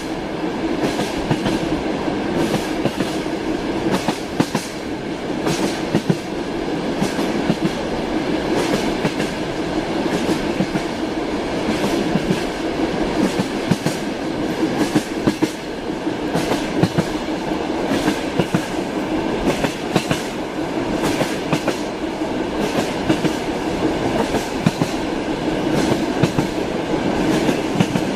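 Train wheels clattering over rail joints as the train runs at speed, many clicks over a steady rumble.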